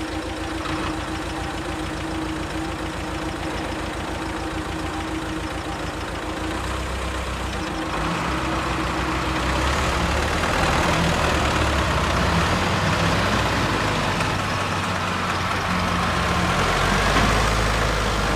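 Diesel tractor engines working during a tow out of mud, with a Zetor 8011 pulling a stuck Belarus 82. The engine note is steady at first, then grows louder and heavier from about seven seconds in as the engines come under load.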